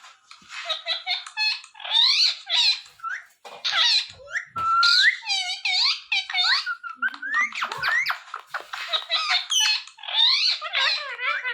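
Ringneck parrot chattering and squeaking: a rapid, nearly unbroken string of high-pitched chirps and calls that swoop up and down in pitch.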